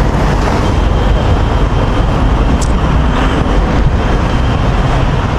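Steady traffic noise from a busy highway, with a heavy low rumble throughout.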